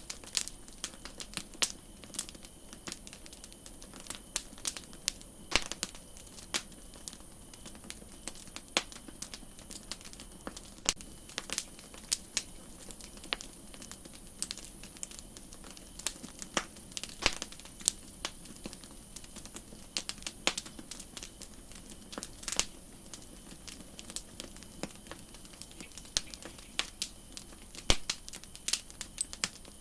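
Wood campfire crackling, with frequent irregular sharp pops and snaps over a steady high hiss that grows louder about a third of the way in and drops back near the end.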